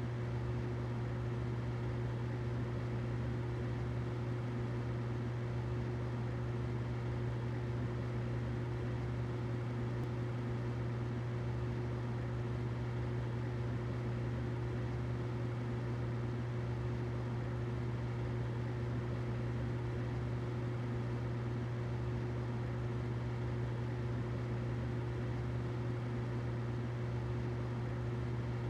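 Humidifier running: a steady low hum with a faint higher tone and an even hiss, unchanging throughout.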